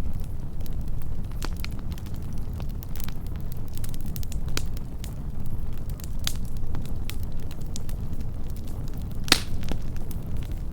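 Wood campfire burning close up: a steady low rumble of flames with frequent sharp crackles and pops, one loud pop near the end.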